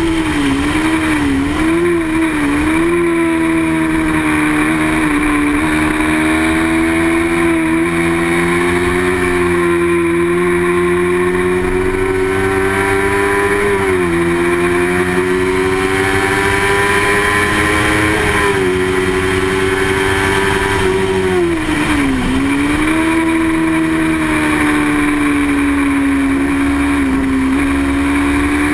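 Racing motorcycle engine held at high revs, its pitch climbing slowly and dropping suddenly a few times as the rider shifts gear, with one deep dip and climb back about three-quarters of the way through as the bike slows for a corner and accelerates out.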